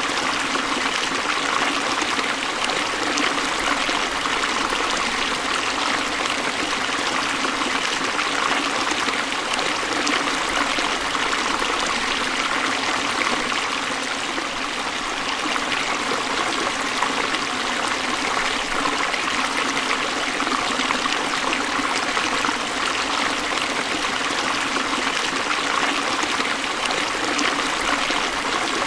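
Forest stream flowing over rocks, a steady rush and trickle of water.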